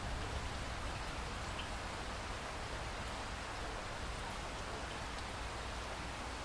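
Steady rainfall: an even hiss of rain with a few faint drop ticks.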